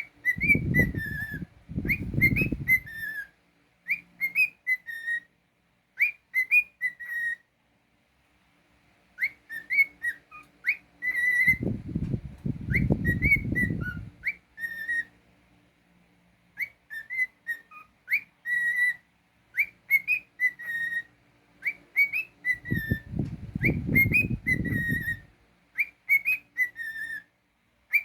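Cockatiel whistling its song: short phrases of clear rising and falling whistled notes, repeated over and over with a brief pause about a third of the way through. Three times a low rumbling noise sounds underneath the whistling for two or three seconds.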